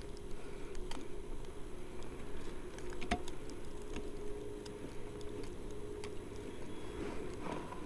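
Footsteps crunching and patting through deep, soft snow, with a few sharp clicks along the way.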